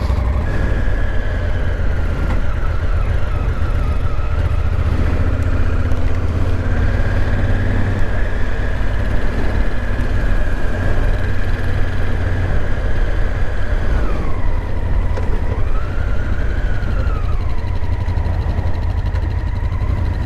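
Honda Africa Twin motorcycle riding on the road: a steady low engine and wind rumble, with a thin whining tone over it that holds, then dips, rises and falls again near the end.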